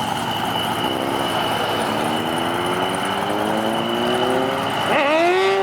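A car engine accelerating, its pitch climbing steadily for several seconds over a steady high whine. Near the end the revs drop and then jump sharply.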